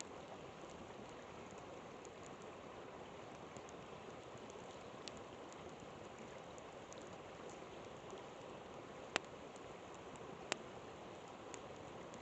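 A flowing river rushing steadily, with a campfire crackling over it in scattered small ticks and two sharper pops about nine and ten and a half seconds in.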